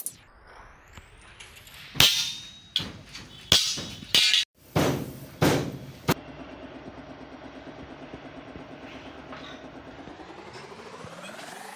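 About seven loud, sharp blows on metal, a second or less apart, like hammering on sheet or frame steel. A steady motor hum with a fast pulsing follows and rises in pitch near the end as it speeds up.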